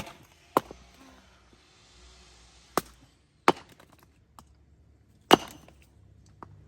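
Firewood being chopped by hand: about five sharp, separate blows at an uneven pace, with a loud one about five seconds in.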